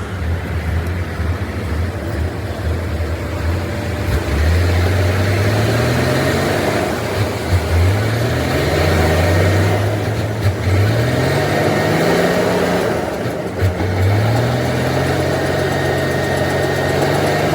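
Truck engine pulling through the gears: its note climbs and drops back about four times as it shifts, then holds steady near the end.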